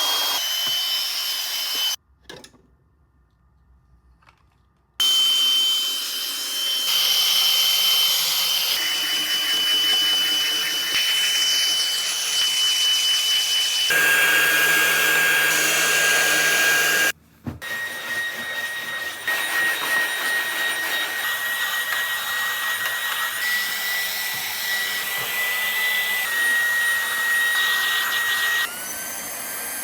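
Obicum Air Home cordless handheld vacuum's small brushless motor running with a steady high whine over rushing air, in a string of edited clips; the pitch of the whine changes from clip to clip. About two seconds in it cuts to near silence for roughly three seconds, and it drops out briefly again past the middle.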